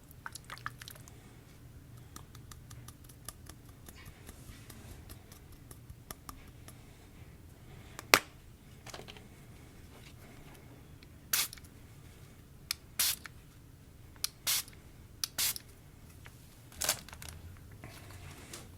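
Hands kneading and squeezing slime with crunchy sprinkles in it, working in freshly added activator: soft crackling, then a series of short sharp pops, the loudest about eight seconds in.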